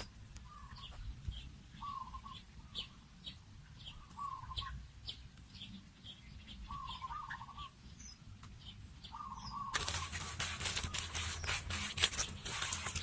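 Birds calling: a short wavering call repeats about every second or so, with thin high chirps in between. About ten seconds in, a dense crackling, rustling noise sets in suddenly and covers the calls.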